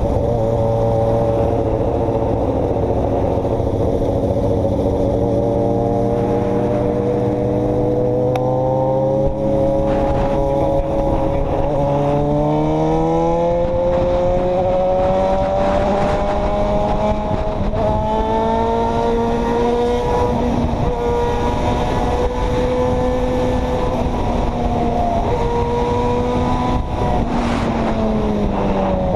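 Motor vehicle engine running while driving, its pitch climbing slowly as it speeds up about a third of the way in, holding steady, then dropping near the end.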